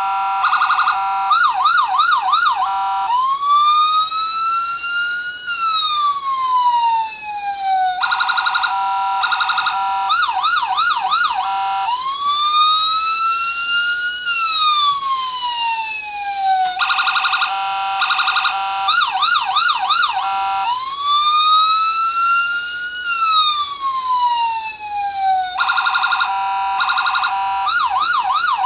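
Electronic police siren from a circuit board, cycling through a fast pulsing tone, a few quick warbles, and a slow rising-then-falling wail. The pattern repeats about every nine seconds, three times over.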